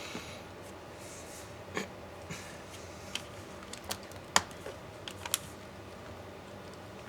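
Irregular small clicks and taps of laptop parts being handled during a teardown. The sharpest click comes a little past the middle, with another about a second later.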